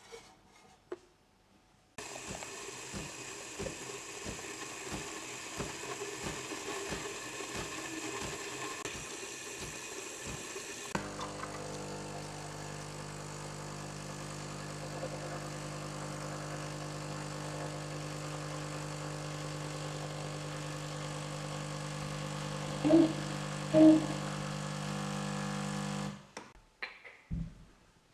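A motor-driven machine running steadily with a hum, which starts and stops abruptly. Two short loud beeps come about a second apart near the end. Before it comes a noisier stretch with a regular knock about twice a second.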